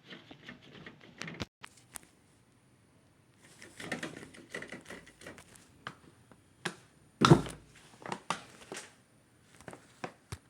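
Scattered clicks, taps and short scrapes of hard objects being handled, with one loud knock about seven seconds in.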